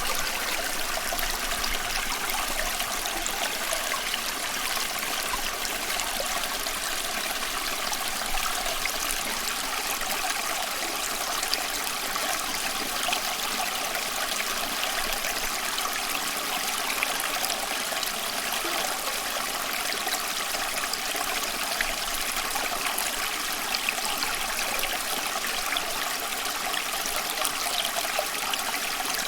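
Small stream flowing steadily, water trickling and babbling over stones with a continuous bright splashing hiss.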